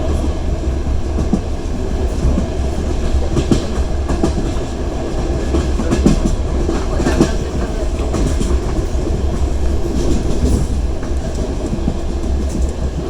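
Clatter of a passenger train's wheels heard from inside the carriage: a steady low rumble of the running train with irregular clicks and knocks as the wheels pass over the rails.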